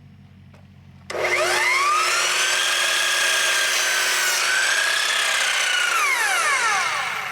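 Electric power saw spinning up about a second in, running at a steady high whine through a cut in wood with a slight dip in pitch partway, then winding down near the end.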